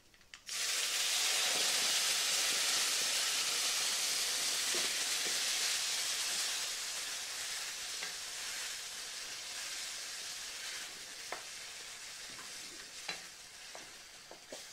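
Wet ground tamarind and onion paste poured into hot oil in a steel pan: a loud frying sizzle bursts in about half a second in and slowly dies down as it is stirred. A few light clicks of the spoon against the pan come near the end.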